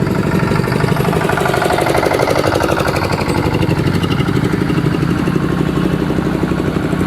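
A motorcycle engine running steadily at low speed, with a fast, even firing beat.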